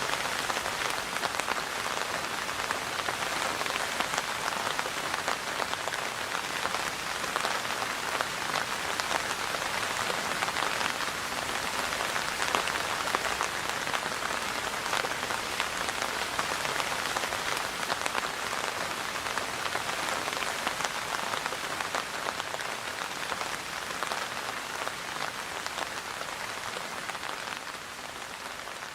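Steady rain falling, a dense hiss of many drops with individual drop ticks heard through it, easing slightly in level near the end.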